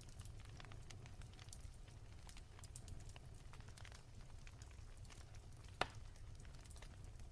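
Wood fire crackling softly in a fireplace: scattered small pops and snaps over a low steady rumble, with one sharper, louder pop near the end.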